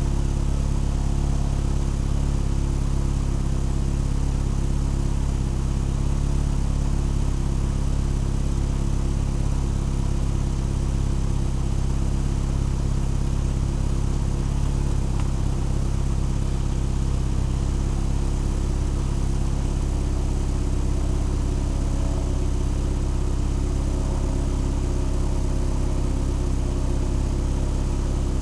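Vehicle engine idling steadily at an even, unchanging speed.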